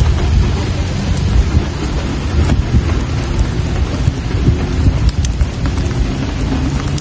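Steady rain falling, with scattered sharper drop ticks over a dense low rumble.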